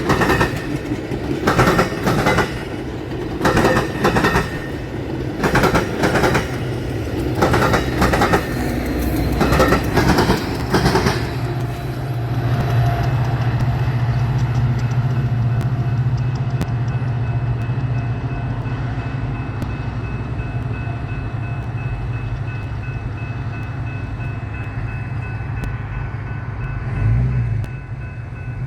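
Train wheels clunking over the rails of a railroad diamond crossing, a loud knock about once a second for roughly the first eleven seconds, then a diesel locomotive's steady low engine drone that slowly fades as it passes.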